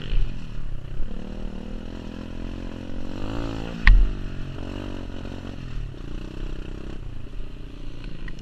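Pit bike's single-cylinder four-stroke engine revving up and down, its pitch rising and falling several times. About four seconds in there is a single sharp crack with a low thump, the loudest moment.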